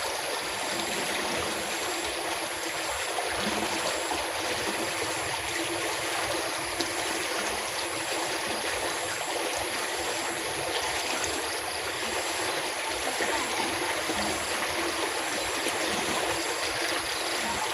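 Water flowing steadily: a stream of rain runoff rushing and trickling without a break.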